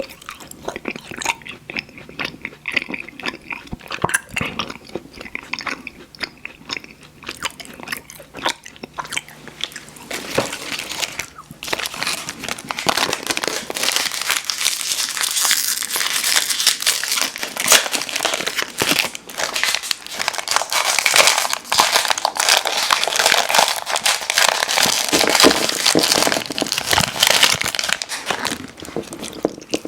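Close-miked chewing of chewy fruit candy: sparse wet mouth clicks at first, then denser and louder about ten seconds in.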